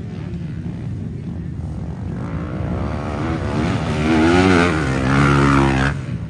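A motocross bike's engine revs hard under changing throttle, growing louder over the first few seconds. It is loudest between about four and six seconds in, then drops away suddenly.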